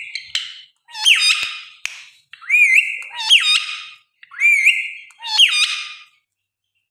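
A pet parrot squawking: about six harsh calls, each with a quick sweep in pitch, coming in loose pairs and stopping about six seconds in.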